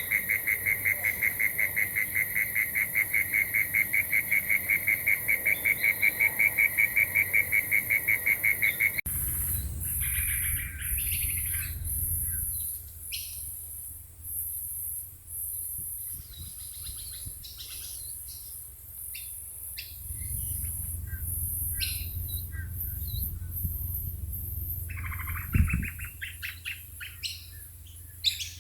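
A frog calling in a rapid, steady run of high ticks, about five a second, over a high insect hiss. About nine seconds in it cuts to scattered bird chirps and calls, with a pulsing insect drone high above.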